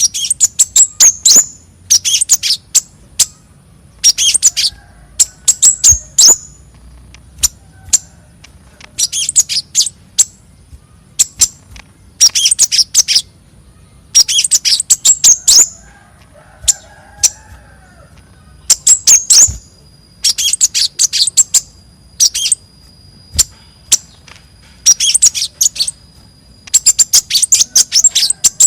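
Konin, a small songbird, calling in repeated bursts of rapid, very high-pitched chirps, a burst every second or two. Fainter, lower bird calls come between the bursts.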